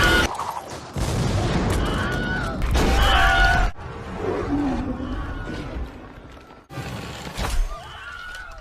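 Excerpts from action-film soundtracks: crashes, booms and gunfire mixed with music and cries. High yells rise out of the mix about two seconds in and again a second later.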